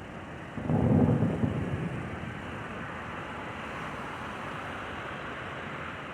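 A firework shell bursting overhead: a low, rumbling boom that starts about half a second in and fades after about a second, followed by a steady hiss.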